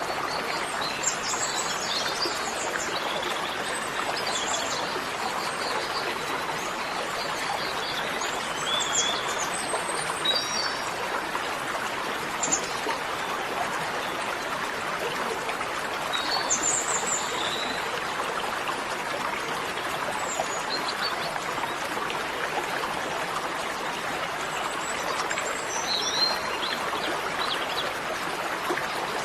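Small birds chirping now and then over a steady rushing hiss like running water.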